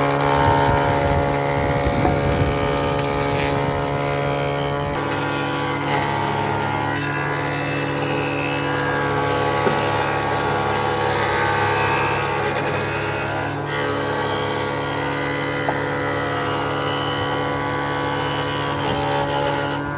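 A power tool's motor running steadily at constant speed, a hum with many overtones that shifts slightly a couple of times.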